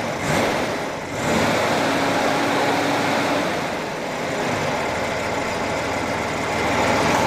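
Chevrolet Corvair air-cooled flat-six engine running steadily on a test stand, its exhaust led through flex pipes into mufflers.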